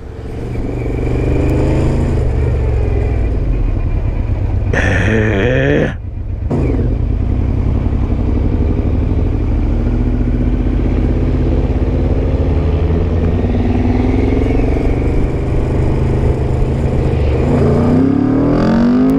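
Motorcycle engine running while riding, with heavy wind noise on the microphone. The revs rise and fall with throttle and gear changes, and climb sharply near the end.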